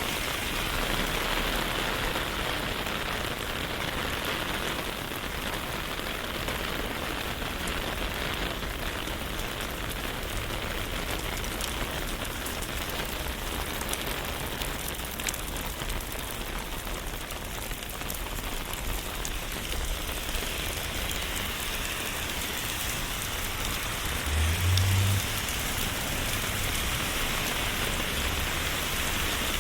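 Steady rain falling, with many small drops pattering. About 25 seconds in there is a brief low thump.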